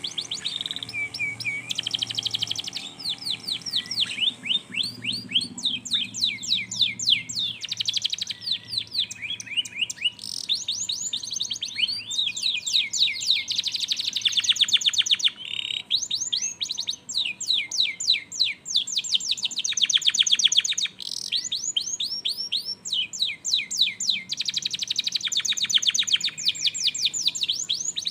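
Domestic canary singing a long song of rapid trills, each phrase a fast run of repeated down-sweeping notes, with short breaks between phrases. It is a lure song for getting a canary that has gone quiet to start singing. Faint background music sits underneath for the first several seconds.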